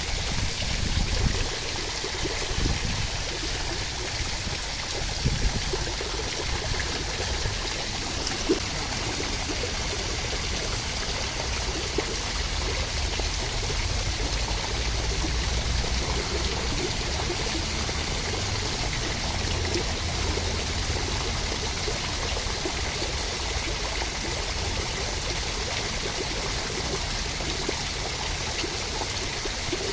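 Steady rushing water, an even hiss of rain or running water, with a few brief low knocks in the first nine seconds.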